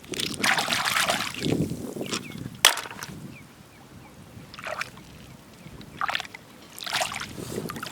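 Short bursts of scraping and shuffling in wet sand while digging for clams on a mudflat, with a sharp click about two and a half seconds in, like a shell knocking against a shell.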